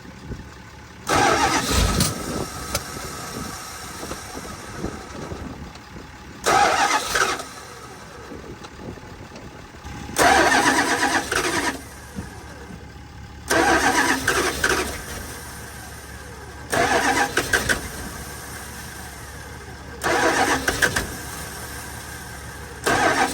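First-generation Dodge truck engine struggling to start from a hard cold start, in about seven loud bursts of a second or two each with a lower running noise between them. It is not yet running properly; its oil is thickened by the cold.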